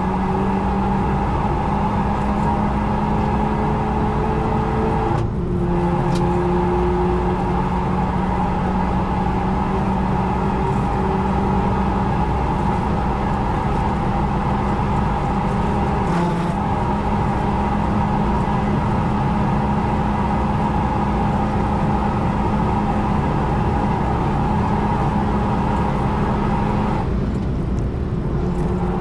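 Renault Mégane RS Trophy-R's turbocharged four-cylinder engine heard from inside the cabin, pulling at full throttle with its pitch slowly rising. About five seconds in there is a quick upshift from fourth to fifth gear, followed by a long climb in fifth. Near the end the driver lifts off the throttle and brakes.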